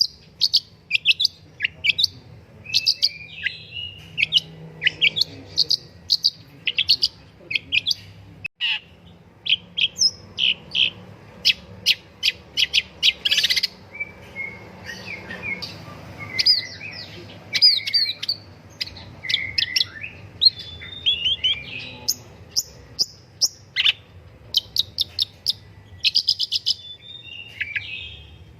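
Long-tailed shrike singing a rapid, varied song of short chirps and sweeping whistled notes, with a brief harsh, rasping note about halfway through.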